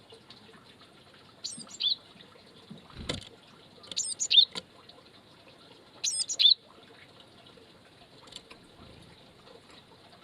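Small wild songbird giving short high chirps in three quick bursts about two seconds apart, with a sharp knock about three seconds in.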